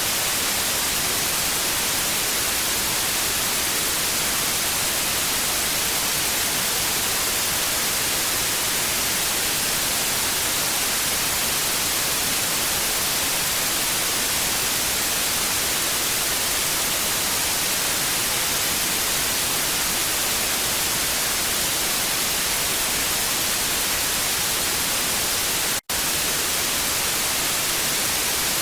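Analogue TV static: a steady, even hiss, strongest in the treble, with a split-second dropout near the end.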